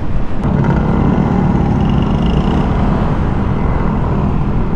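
Motorcycle engine running steadily while under way, a continuous low drone.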